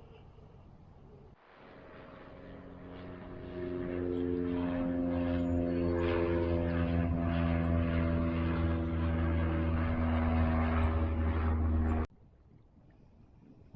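A motor's droning hum with a stack of steady pitches, swelling over about two seconds, holding loud, then cutting off abruptly near the end.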